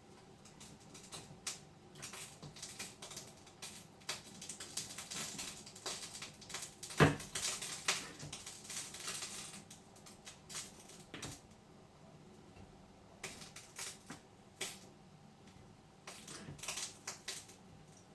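Light, scattered clicks and taps of kitchen handling as potato pieces are lifted out of an egg-and-milk mixture and set on a plate, with one louder knock about seven seconds in.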